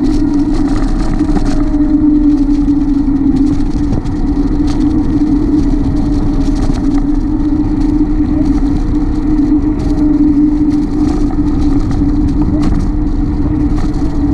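Steady road and wind noise from riding a bicycle: a loud constant rushing with a steady hum, unbroken throughout.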